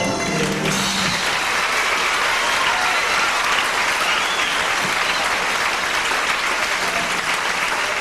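Theatre audience applauding. A song's last held chord fades out in the first second, and then the clapping goes on steadily.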